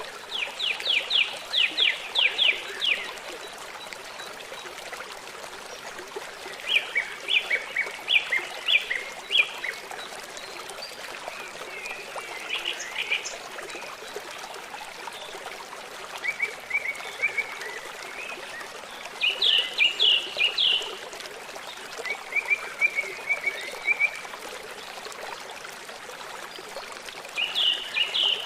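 Songbirds singing short phrases of fast repeated notes, a new phrase every few seconds, over the steady rush of running water.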